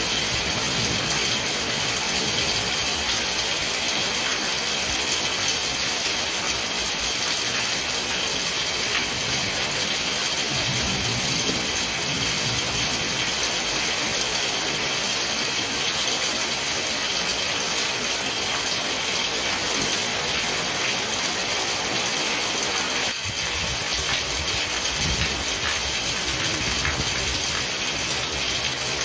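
Heavy rain pouring down steadily, a dense, even hiss, with one short dip in level late on.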